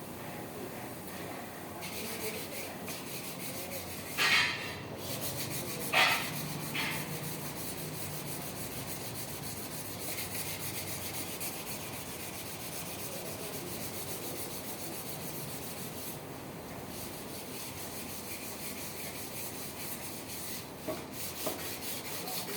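Steady rubbing and scrubbing on truck valve rocker arm parts as they are cleaned. Two brief louder scrapes come about four and six seconds in.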